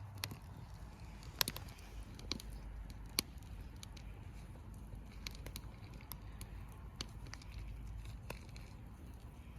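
Wood campfire burning and crackling, with irregular sharp pops over a low steady rumble of the flames.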